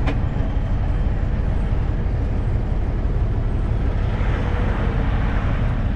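Semi truck's engine and road noise heard from inside the cab while driving: a steady low rumble, with one sharp click at the very start.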